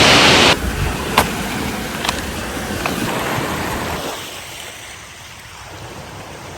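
Rushing water: loud at first, then after a sudden cut about half a second in, a softer steady rush that fades gradually, with a few faint clicks.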